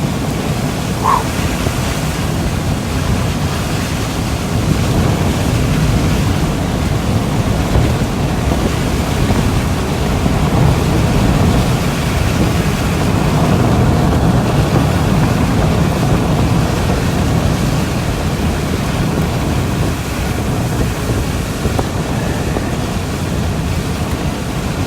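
Steady rushing noise inside a car driving through a storm: wind and road noise with no let-up.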